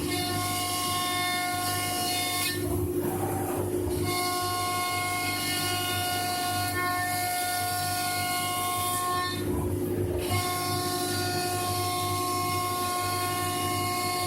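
CNC router spindle running and milling a door, a steady whine of several held tones. Twice, briefly, the whine drops away and a rougher cutting noise comes through.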